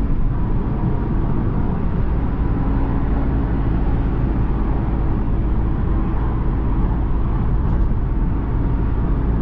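Tuned Volkswagen Golf R's 2.0-litre turbocharged four-cylinder at a steady cruise of about 46 mph, heard from inside the cabin: a steady low engine drone mixed with road and tyre noise.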